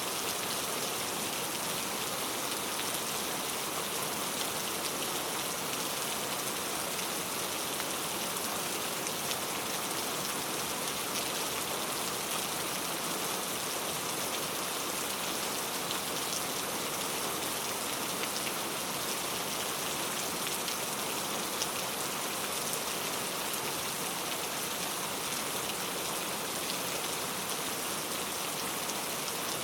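Steady rain falling, an even hiss of many drops with faint individual patters on a surface.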